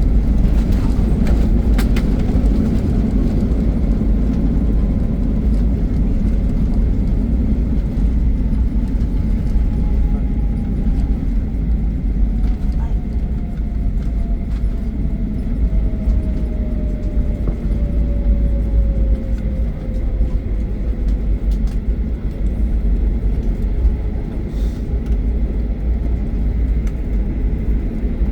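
Airplane landing: a steady, heavy rumble with a faint whine that slowly falls in pitch over most of the stretch, as the engines wind down.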